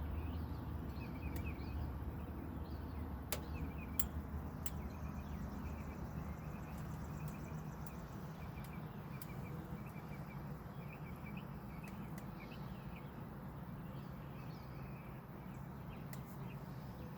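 Small birds chirping repeatedly over a low background rumble, with a few sharp clicks about three to five seconds in.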